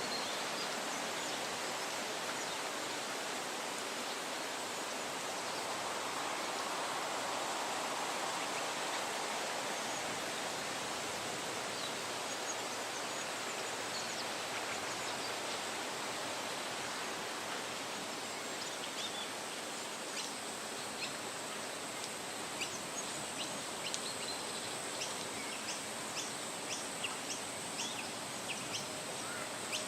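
Wind rustling through the leaves of woodland trees, a steady hiss that swells a little several seconds in. Birds chirp in short, high calls that start about halfway through and come more and more often toward the end.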